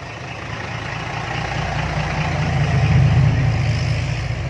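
Diesel dump truck engine with a loud exhaust, growing louder as the truck draws near, loudest about three seconds in, then easing slightly.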